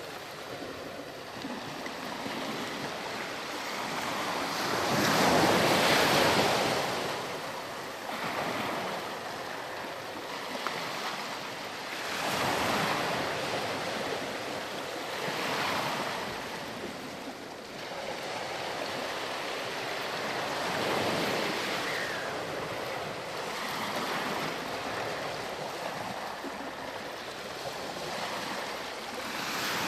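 Ocean waves breaking on a sandy beach, the surf rising and falling in slow swells every few seconds, the loudest about five to seven seconds in.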